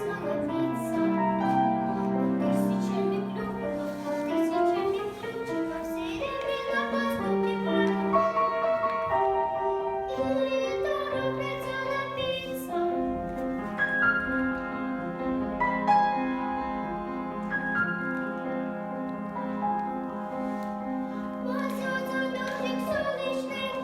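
Children's song with piano accompaniment and a young girl's singing voice.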